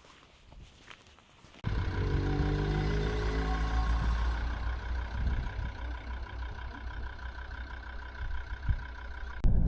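A vehicle driving, its engine and road noise starting abruptly about a second and a half in. The engine note falls over the next couple of seconds, then settles into a steady drone.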